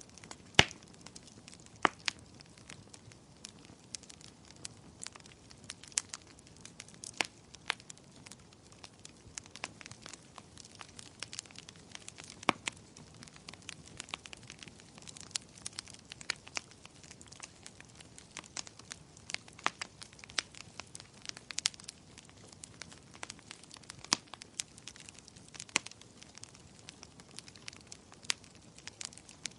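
Wood fire crackling in a fireplace: irregular small pops and ticks over a faint steady hiss, with a few sharper snaps, the loudest about half a second in.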